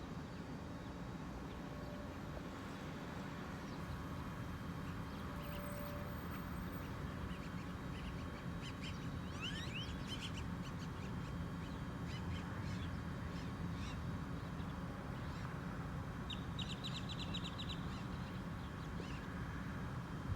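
Birds calling over a steady low rumble: scattered short calls and rising chirps partway through, and a quick run of short calls about three-quarters of the way in.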